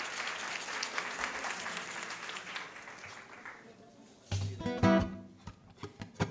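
Audience applause fading out, then strummed acoustic guitar chords starting about four seconds in, opening a samba.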